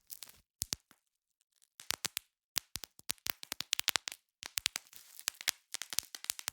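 Bubble wrap being popped by hand: irregular sharp pops, sometimes several in quick succession, with a short pause about a second in and plastic crinkling between pops.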